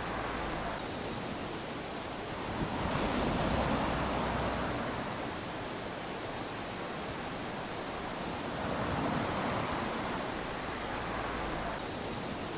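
Small ocean waves lapping onto a sandy beach, a steady wash with a wave swelling and breaking about three seconds in and another near the middle.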